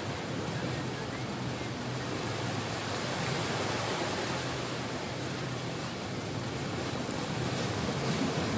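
Steady rushing noise of sea waves breaking on the shore.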